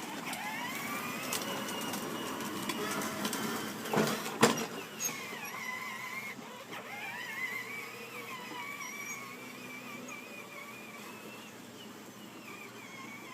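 Whine of a child's ride-on toy truck's small electric motor, rising in pitch as it speeds up and then holding steady, twice. A couple of sharp knocks come about four seconds in.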